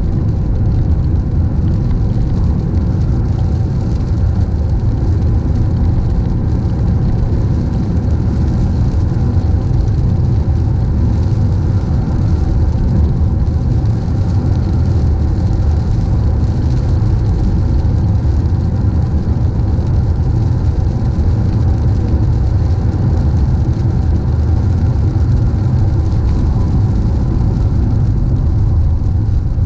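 Car driving on a rain-wet road: a steady low rumble of road and engine noise with an even tyre hiss.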